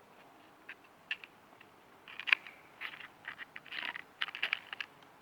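Dry bark and small sticks being handled for a campfire: a run of light crunches, snaps and scratches, with one sharp click a little past two seconds in.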